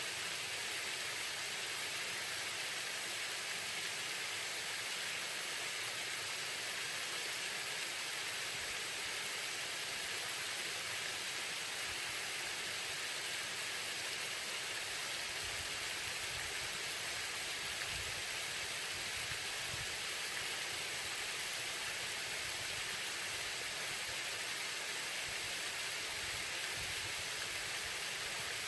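Waterfall: the steady, even rush and hiss of falling water, unchanging throughout.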